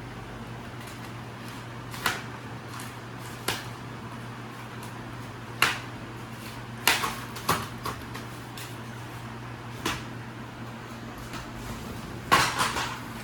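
Scattered sharp knocks and clicks of things being handled, some single and some in quick clusters, over a steady low hum.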